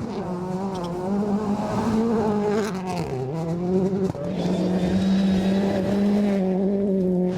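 Rally car engine running hard at high revs, its pitch rising and falling as the driver works the throttle, dipping about three seconds in and then holding high and steady.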